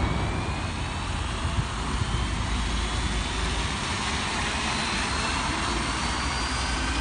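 Toy remote-control helicopter's small electric motors and rotors whirring steadily, with a thin whine that slowly rises in pitch over a low rumble.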